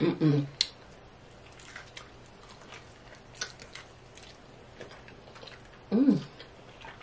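Close-miked biting and chewing of a crispy fried chicken wing, heard as scattered faint crunches. A short vocal sound comes at the start and another about six seconds in.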